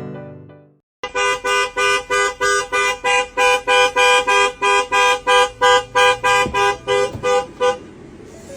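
A two-tone horn honking in rapid, evenly spaced blasts, about three a second, for several seconds before it stops. Music fades out just before it.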